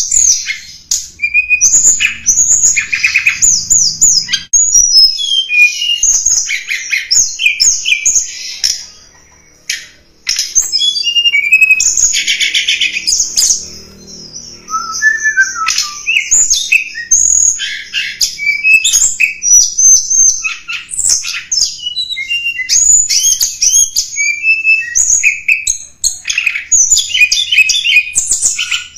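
A tledekan gunung (Javanese mountain blue robin/flycatcher-type songbird) singing a rapid, varied, high-pitched song of chirps, sweeping whistles and fast trills, almost without a break apart from a brief pause about nine seconds in. It is a lure-call recording used to attract wild tledekan.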